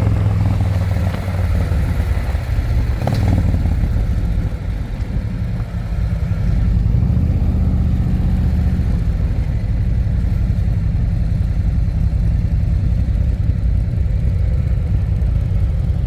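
Harley-Davidson Electra Glide's V-twin engine running under way, heard from the pillion seat. It eases off for a couple of seconds and picks up again about six or seven seconds in.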